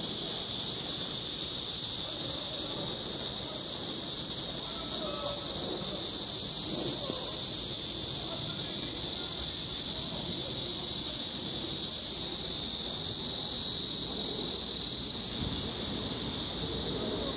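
A cicada singing, a loud, steady, high buzz that does not let up.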